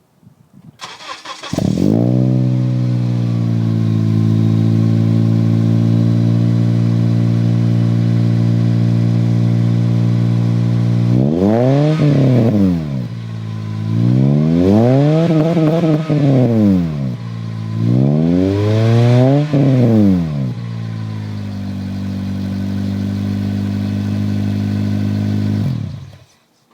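Acura RSX base's 2.0-litre four-cylinder engine through an aftermarket Skunk2 Megapower exhaust. It starts up about a second in and idles, then is revved three times in the middle, each rev rising and falling in pitch. It settles back to idle and shuts off near the end.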